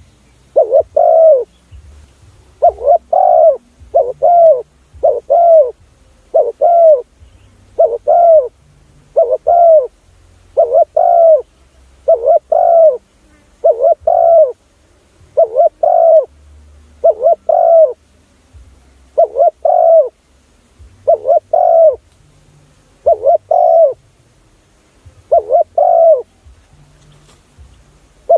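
Spotted dove cooing over and over: short, low coo notes, mostly in pairs, repeated at a steady pace of about one to two notes a second. This is the call played as a decoy to lure spotted doves.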